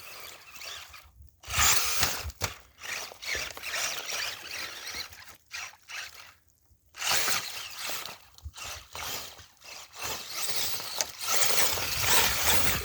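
Brushless Axial Wraith RC mud truck driving through mud in bursts of throttle, its tires churning and spraying mud. It stops and starts several times, with brief pauses about a second in and again near seven seconds.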